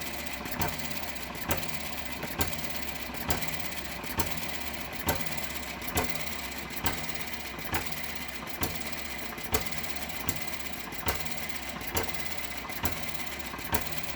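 Eachine ET7 model stationary petrol engine running very slowly, fitted with weaker springs to slow it down. It fires with a sharp pop a little under once a second over a steady mechanical running sound.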